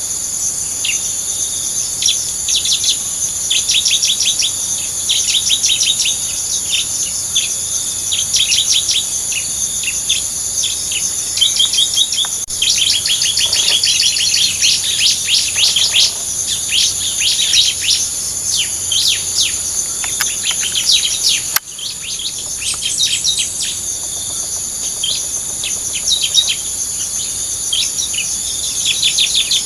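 Bar-winged prinias (ciblek) calling in rapid runs of sharp, high chirps, over a steady high-pitched insect drone. The level dips briefly about two-thirds of the way through.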